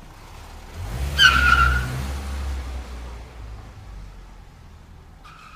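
Tow truck engine running and swelling about a second in, with a falling squeal as it pulls up, then fading; another short squeal near the end.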